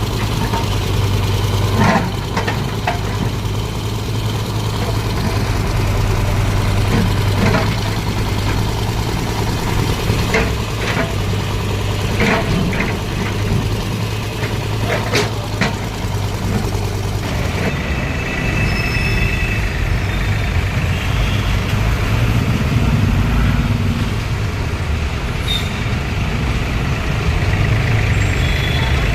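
Heavy vehicle engine idling in road traffic, a steady low hum with scattered knocks and clatters. About two thirds through, the hum drops away and a different traffic mix with a steady high tone takes over.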